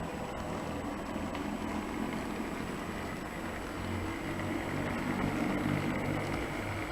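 HO-scale model train running on the layout: a steady motor hum with wheel noise on the track, growing a little louder near the end.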